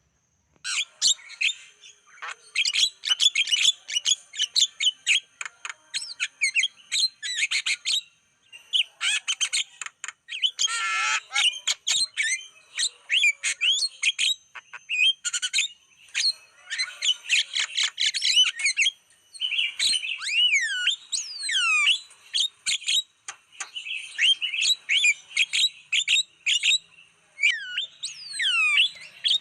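Javan myna (jalak kebo) singing: a fast, varied stream of chirps, harsh squawky notes and whistles that starts about a second in, with a run of falling whistles in the second half.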